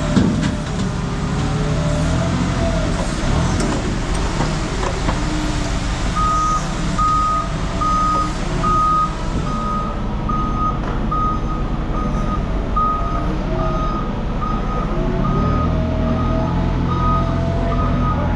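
A vehicle's engine running, with shifting pitch, and from about six seconds in a reversing alarm beeping about once every 0.8 seconds. The engine grows louder and deeper near the end.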